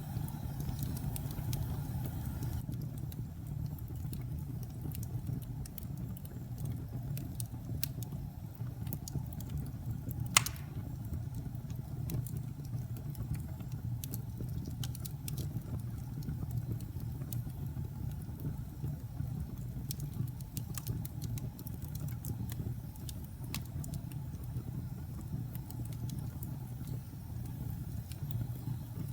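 Logs burning in a fireplace: a steady low rumble of flame with scattered small crackles, and one sharp, louder pop about ten seconds in.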